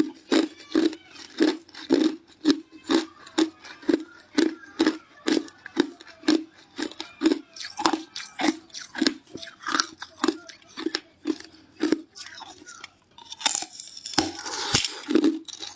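A person chewing ice cubes close to the microphone, with crisp crunches about twice a second. Near the end comes a denser crackling stretch as more ice is bitten and crushed.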